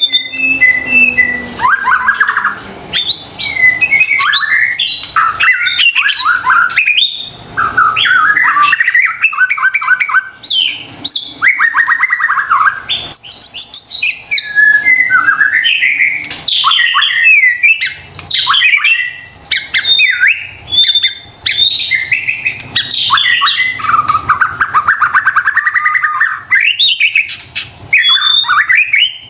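White-rumped shama (murai batu) in full song: a continuous, loud run of varied phrases, with clear whistles, sliding notes and fast rattling trills, broken only by short pauses.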